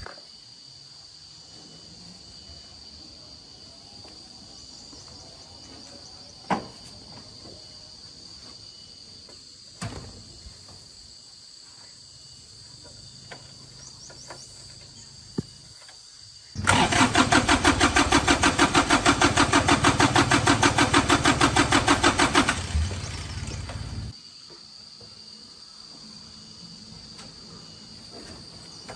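Tractor engine turned over on its starter for about six seconds, a fast even chugging, then dropping lower briefly before cutting off abruptly. Crickets chirp steadily throughout, with a few scattered clicks before the cranking.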